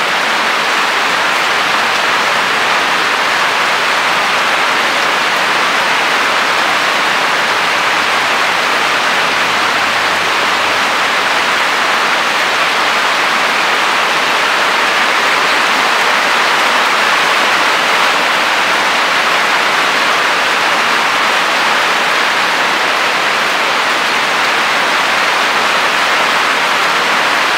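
Loud, steady rainfall, a continuous even hiss of rain with no breaks or changes.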